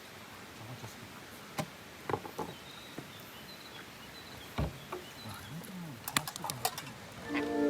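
Quiet outdoor background with scattered light clicks and knocks and one duller thump about halfway through, plus a few faint high chirps. Music fades in near the end.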